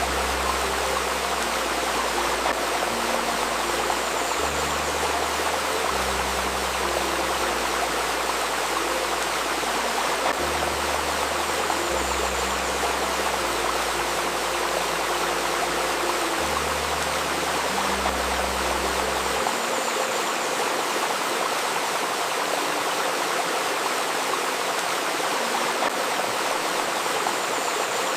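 Steady rushing and babbling of a river stream. Beneath it sit a faint steady 528 Hz tone and soft, low sustained synth notes that change every couple of seconds; the deepest of these notes drop out about two-thirds of the way through.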